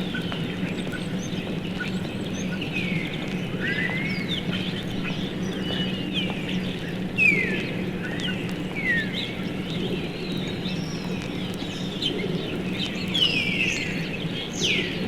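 A roosting flock of common starlings whistling and chattering, with many short rising and falling whistles, over the steady low roar of city traffic.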